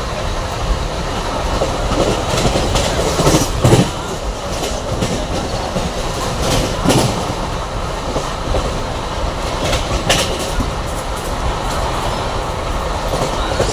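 Passenger train running along the track: a steady rumble of wheels on rails with a few sharper clacks over rail joints, the loudest about three and a half seconds in.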